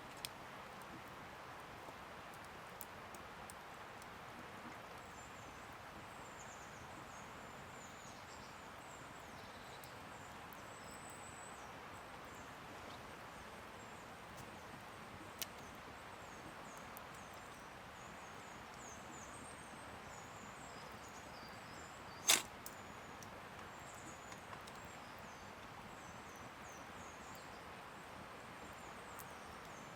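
Steady rush of flowing river water with many thin, high bird calls over it, and one sharp crack about two-thirds of the way through.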